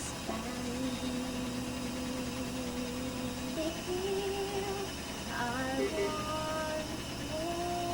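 A voice humming a slow melody without words, in long held notes that step from one pitch to the next, with a short upward slide about five seconds in and a wavering note near the end.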